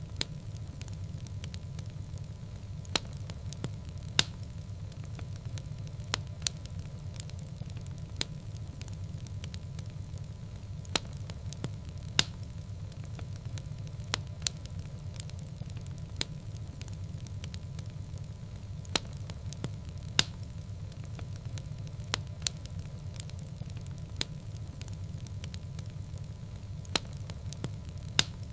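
Fire burning in a fireplace: a steady low rumble of flames with irregular sharp crackles and pops, a few of them louder snaps.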